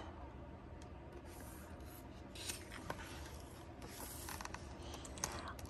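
Faint rustling and rubbing of paper, a book page being handled and turned, with a few light ticks over a low steady hum.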